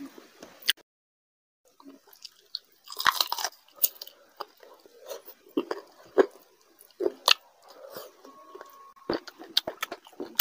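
Close-miked wet chewing and lip smacking of a mouthful of rice and curry, with sharp mouth clicks throughout and a denser burst of chewing about three seconds in. The sound cuts out completely for under a second near the start.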